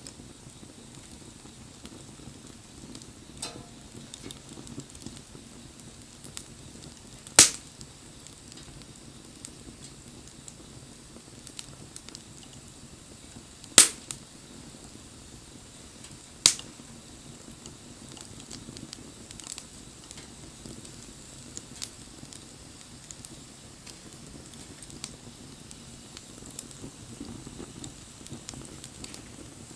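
Wood fire burning with a steady low noise of flames and scattered small crackles, broken by three sharp pops from the burning wood, the loudest about seven and fourteen seconds in.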